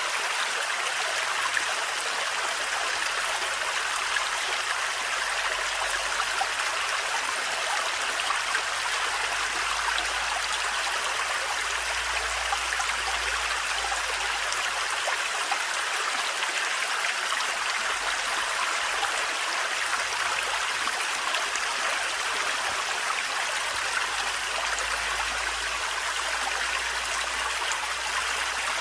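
Small thread-like forest waterfall: water running and splashing steadily.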